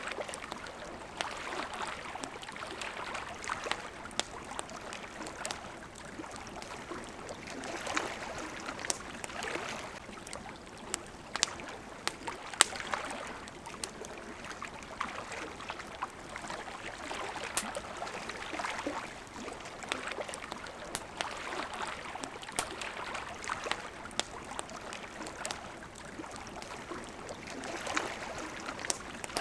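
Wood campfire crackling with frequent sharp pops, over steadily lapping water.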